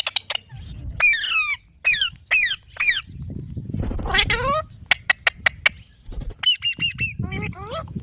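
Pet green parrot calling: a run of short harsh squawks that fall in pitch, with sharp clicks between them and low rustling underneath.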